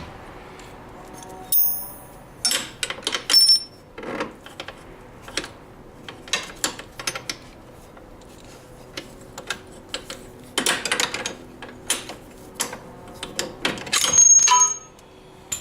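Hand tools and metal hardware clinking and knocking: a string of sharp, irregular clicks with a few brief metallic rings, the loudest near the end.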